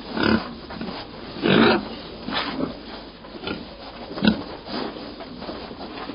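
Pig grunting: a string of short grunts, roughly one a second, the loudest about a second and a half in.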